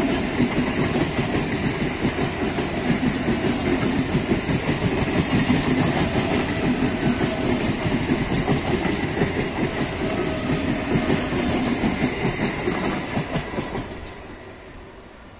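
A 12-coach three-phase Bombardier EMU local train passing at speed, with a fast, steady clatter of wheels over the rail joints. The clatter fades away over the last couple of seconds as the train moves off.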